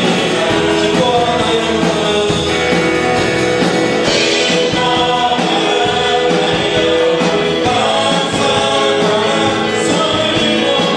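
Live worship music: a praise band playing while voices sing a gospel praise song together.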